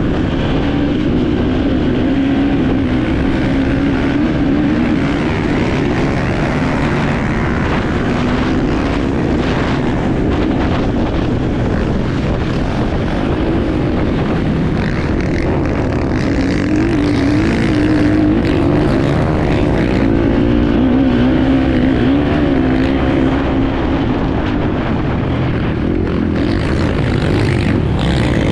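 Enduro motorcycle engine heard on board, running hard for the whole stretch, its pitch rising and falling as the throttle opens and closes, over a steady rushing noise.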